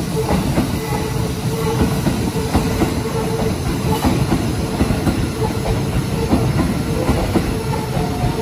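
Shin-Keisei Line electric commuter train running close past the platform: a steady rumble, with its wheels clacking over the rail joints.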